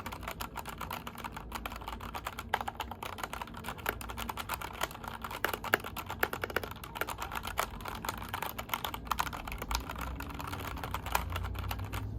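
Fast, continuous typing on a COX mechanical keyboard with Gateron brown tactile switches, many irregular keystroke clacks that stop at the very end.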